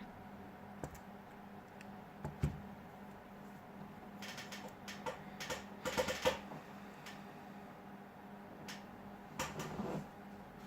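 Scattered small clicks and taps from a smartphone and small tools being handled during a repair, over a faint steady hum. A few single clicks come early, a quick run of clicks about four to six seconds in, and a shorter run near the end.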